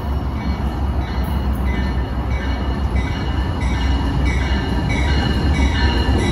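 Amtrak passenger train led by a GE P42DC Genesis diesel locomotive approaching, its engine rumble growing steadily louder. Short high-pitched squeals come and go above the rumble.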